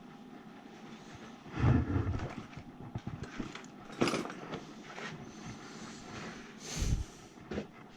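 Irregular handling noise of hands working with tools and parts: scattered knocks and rustles, with a dull thump about one and a half seconds in, a sharp click near the middle, and another thump near the end.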